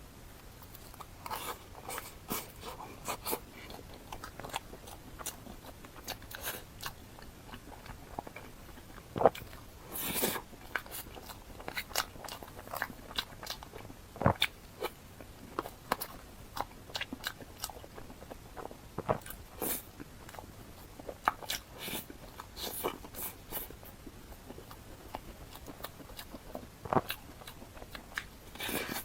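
Close-miked eating: a person biting into and chewing dessert, with irregular crunches, clicks and mouth sounds.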